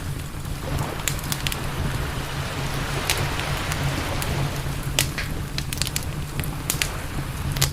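Wood campfire crackling, with sharp pops scattered irregularly, over a steady low rumble and a soft hiss that swells in the middle.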